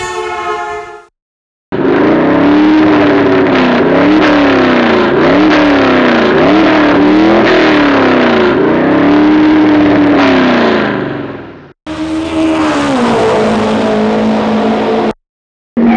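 Car engine revving, its pitch rising and falling again and again in long swells. After a brief break about ten seconds in, the pitch drops and settles.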